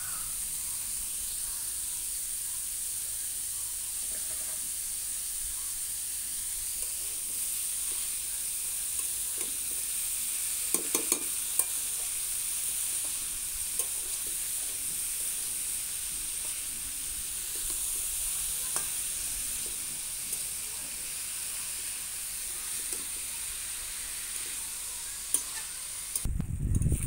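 Shredded cabbage, carrot and potato sizzling steadily in an aluminium kadai while the spices are mixed in, with a metal spatula stirring and scraping against the pan. There are a few sharper scrapes about eleven seconds in and some louder knocks near the end.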